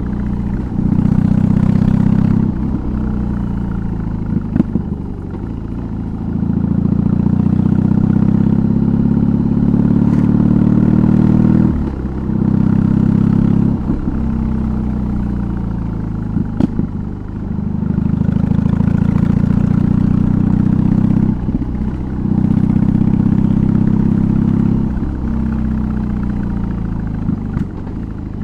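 BMW R18's big boxer twin running through a custom exhaust while riding. It pulls up in pitch several times, each pull broken by a short dip in sound as the throttle is rolled off for gear changes.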